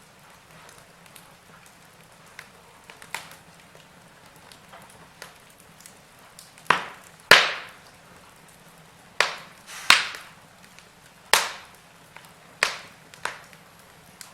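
Wood fire crackling in a fireplace: a faint steady hiss with scattered sharp pops, which come more often and louder in the second half.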